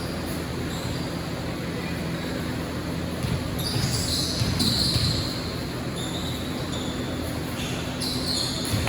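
Basketball game on a gym court: a ball bouncing and sneakers squeaking, with short high squeaks that are loudest a few seconds in and again near the end. Voices and the hum of a large hall carry on underneath.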